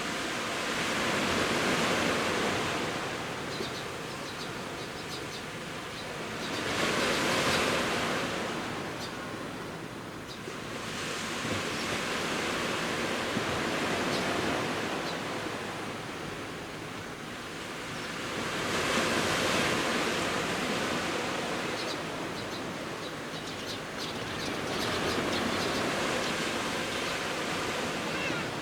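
Sea waves breaking on the beach of the Genkai Sea, the surf swelling and falling back about five times, each wash several seconds apart, with a light fizzing crackle as it runs up.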